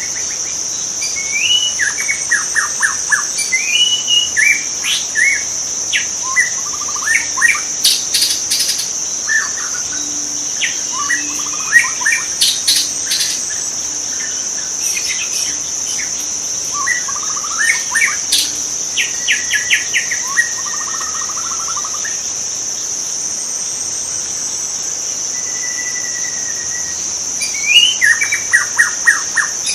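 White-rumped shama singing in bouts of varied phrases: clear whistles, fast trills and sharp notes. The song pauses for several seconds and resumes near the end. A steady high-pitched insect drone runs underneath.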